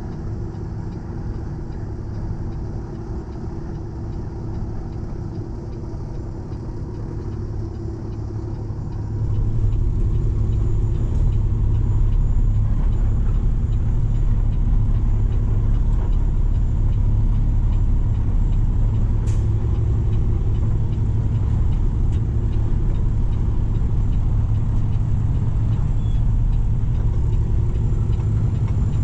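Heavy tow truck's diesel engine running while towing a semi tractor off the road, getting louder about nine seconds in as it pulls under load. A single sharp click comes about two-thirds of the way through.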